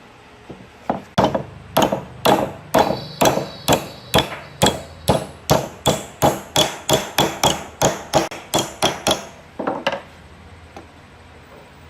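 Hammer blows in a steady run of about twenty strikes, two to three a second and quickening toward the end, with a last pair of blows near the end.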